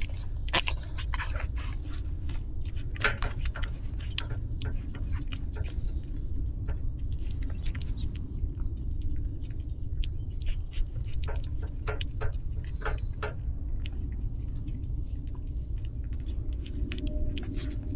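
Steady high-pitched chorus of insects, cricket-like, over a low outdoor rumble, with frequent small clicks close by.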